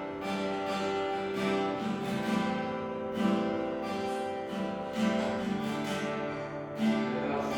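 Acoustic guitar strumming slow chords, the instrumental lead-in to a worship song before the singing starts.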